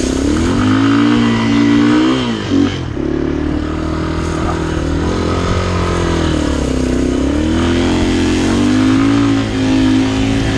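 Vehicle engine working hard and revving up and down several times as it is driven through marshy water.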